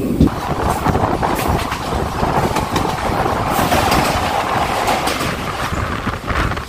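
Passenger train running along the track, heard from aboard: a steady rumble and rattle of the coaches, with a few sharp clacks of the wheels over the rails.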